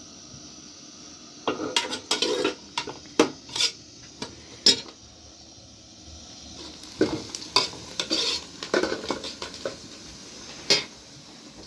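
Irregular knocks, clinks and scrapes of objects being handled, in two busy stretches: one starting about a second and a half in, the other about seven seconds in.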